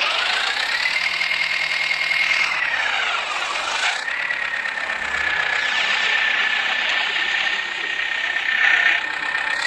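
Tractor diesel engine running hard at high revs. A high whine rises early, dips briefly about three and a half seconds in, then holds steady.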